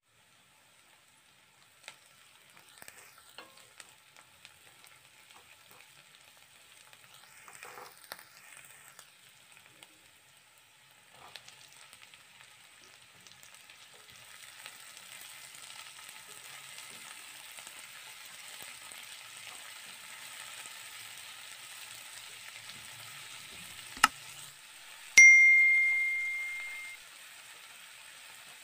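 Chopped onion, green chilli and diced tomato sizzling in oil in a non-stick kadai as they are stirred with a spatula; the sizzle turns steadier once the tomato is in. Near the end there is a sharp click, then one loud metallic ding that rings out for about a second and a half.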